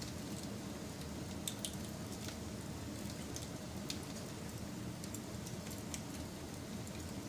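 Wood fire burning with a steady low rumble and scattered small, sharp crackles and pops, a little louder around a second and a half in.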